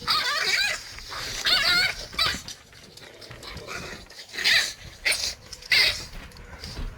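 Jindo dog whimpering and yipping in about six short, high, wavering calls.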